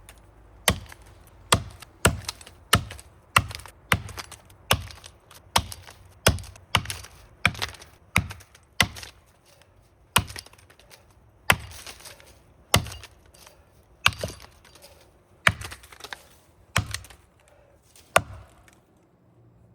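Axe chopping into the trunk of a big standing maple during felling: about twenty sharp strikes in a steady rhythm, quicker in the first half and then slower, stopping shortly before the end.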